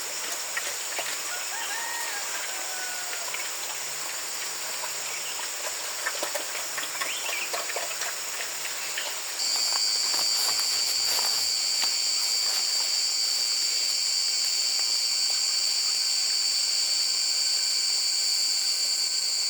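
Insects chirring in a steady high whine, with a few faint bird calls in the first half. About nine seconds in, a louder, steadier insect drone cuts in abruptly and holds.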